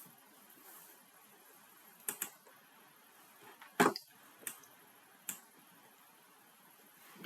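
A handful of short, sharp clicks from a computer keyboard and mouse, scattered and irregular, the loudest about four seconds in, over faint room hiss.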